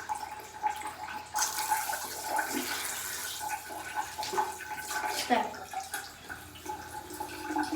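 Shower water running and splashing irregularly as a cat is washed under it.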